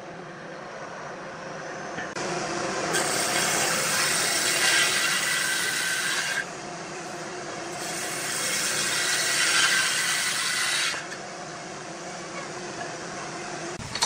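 A tool held against wood spinning on a lathe, cutting or sanding the surface in two long, louder passes, with a quieter rubbing hiss between and after them.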